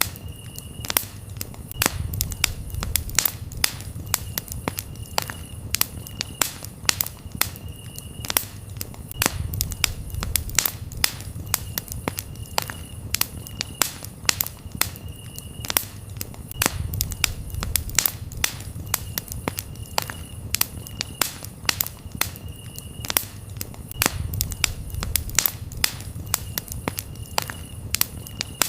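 Campfire crackling, with frequent sharp pops and snaps over a low rumble of burning wood. Crickets are chirping in a steady, repeating high tone behind it.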